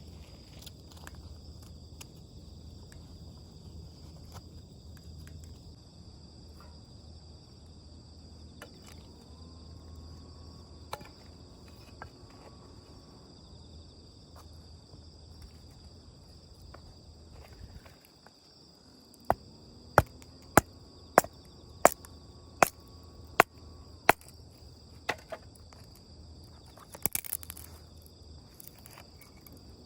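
Insects chirping steadily in a high, continuous trill. About two-thirds of the way in, a series of eight or nine sharp knocks comes at an even pace, roughly one every half second to a second, followed by a couple more near the end.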